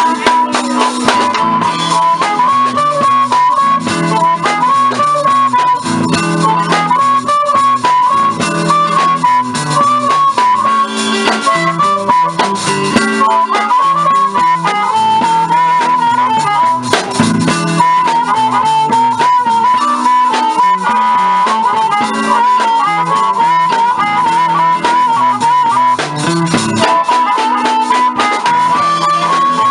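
Live blues band playing an instrumental break, a harmonica carrying a wavering lead line over guitar accompaniment and drums.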